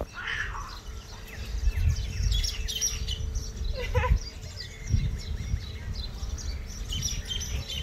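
Small birds chirping in many short, scattered calls, with a short pitched call about four seconds in, over an uneven low rumble.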